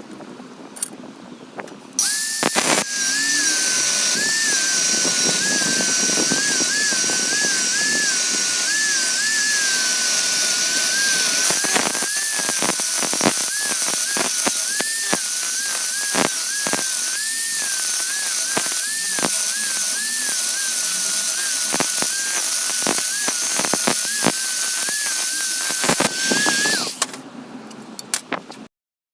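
Angle-grinder-driven belt grinder switched on about two seconds in and running with a high whine that wavers slightly in pitch, with scattered sharp clicks. It is switched off near the end and winds down.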